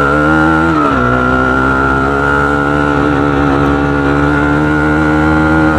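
Bajaj Pulsar AS200's single-cylinder engine running at steady, slightly raised revs through an aftermarket KTM Duke 250 exhaust. The pitch drops a little about a second in and then holds steady.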